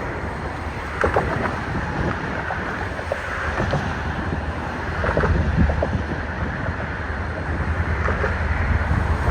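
Wind buffeting the microphone over a steady low engine rumble, with a few short knocks about a second in and again around five seconds.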